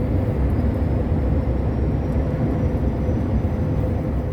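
Truck's engine and tyre noise heard from inside the cab while cruising on the highway: a steady low rumble with a faint steady hum over it.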